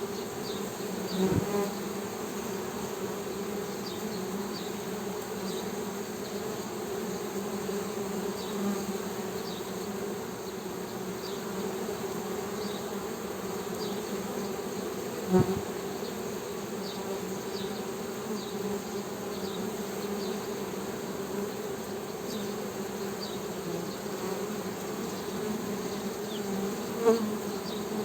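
Honey bees humming in a steady, low drone. Three short knocks stand out: one about a second in, one midway and one near the end.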